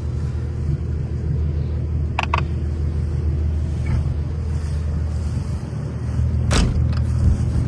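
Car engine running steadily, a low even rumble, with a couple of brief clicks.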